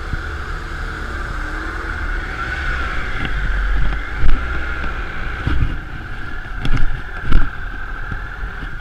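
Motorcycle on the move, its engine and road noise running steadily under wind rushing past the microphone, with several loud low buffets of wind on the mic over the second half.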